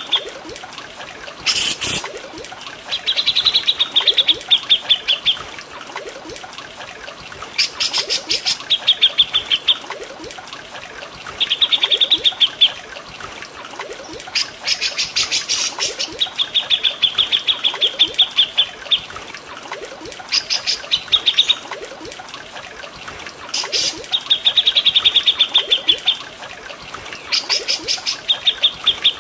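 Cucak jenggot and cililin songbirds singing: rapid trills of quickly repeated notes, each about a second long, coming every few seconds, with sharper single calls between them. Steady trickling water runs underneath.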